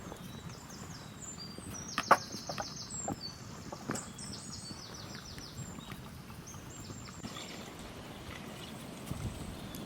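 A songbird singing two rapid high trills, about two seconds in and again about four seconds in, with a few sharp knocks in between, the loudest about two seconds in.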